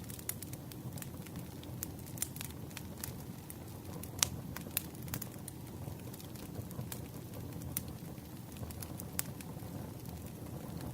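Campfire burning: a steady low rumble with irregular crackles and sharp pops of burning wood, the loudest pop about four seconds in.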